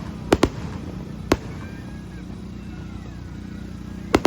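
Fireworks bursting: two quick bangs just after the start, another about a second in, and a quick pair near the end.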